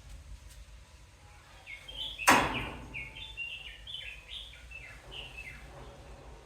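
Birds chirping: a run of many short, quick, falling chirps, with one loud burst of noise a little over two seconds in.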